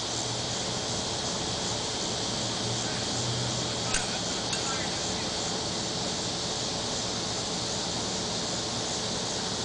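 Steady background hiss with a faint low hum for the first few seconds and a light click about four seconds in.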